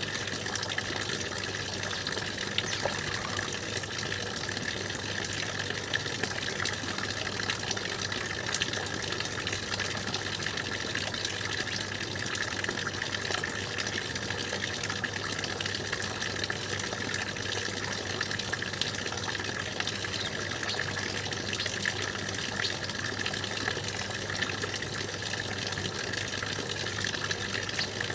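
Stream water running and splashing in a steady, even rush, with fine irregular droplet splashes throughout.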